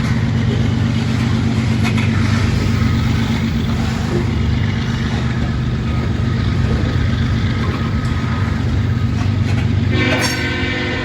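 Diesel freight locomotive running with a steady low drone, then its air horn starts sounding about ten seconds in, a held chord of several tones.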